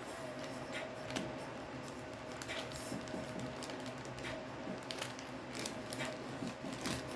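Product packaging being opened slowly by hand: soft rustling and scraping with scattered small clicks, over a faint steady hum.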